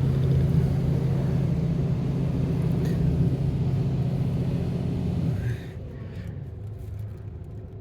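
Steady low mechanical hum heard from inside a car at an automatic car wash. It cuts out suddenly about five and a half seconds in, leaving a quieter low rumble.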